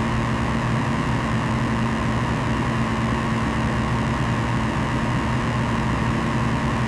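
A steady engine drone with a low hum, starting abruptly and holding an even level.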